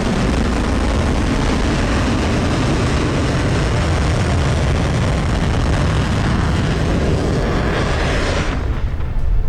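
SpaceX Starship's Raptor rocket engines firing: a loud, steady rumbling rush of noise that cuts off sharply near the end.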